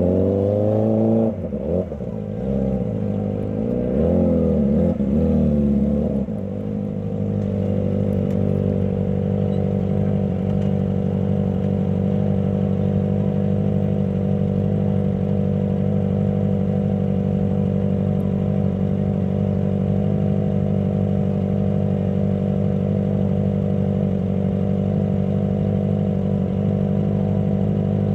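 Kawasaki ZX25R's 250 cc inline-four engine revving in a few short rises and falls, then settling into a steady idle about seven seconds in.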